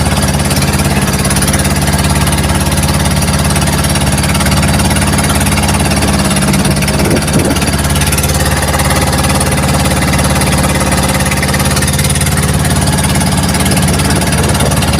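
Small fishing boat's engine running steadily and loudly at an even speed while under way.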